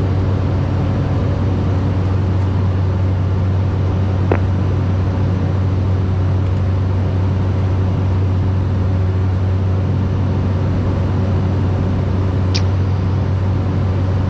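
Steady drone of a Cessna Caravan 208B's PT6A turboprop engine and propeller at climb power, heard inside the cockpit, with a strong low hum. Two faint short clicks, about 4 s in and near the end.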